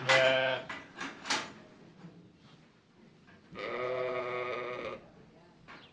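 Farm animal bleating, with a quavering pitch. One bleat comes right at the start, two short cries follow about a second in, and a longer bleat of over a second begins about three and a half seconds in.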